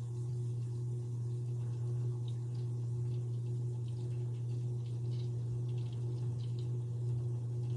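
Antique Century 60-inch ceiling fan running on low speed: a steady motor hum with a few faint, scattered light ticks.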